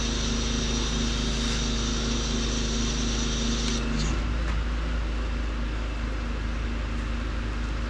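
Pressure washer engine running steadily with a high-pressure water spray hissing; about four seconds in the steady engine note drops away and the spray sound changes, as when the spray gun's trigger is let go or the wand moves.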